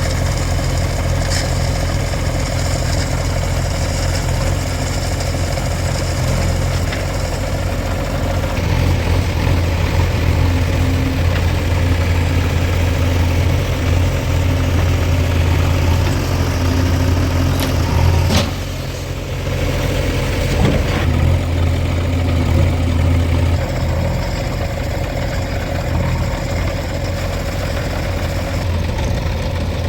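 Diesel engines of a JCB 3DX backhoe loader and farm tractors running, the low hum growing heavier about nine seconds in as the machines work, with a brief drop near the middle.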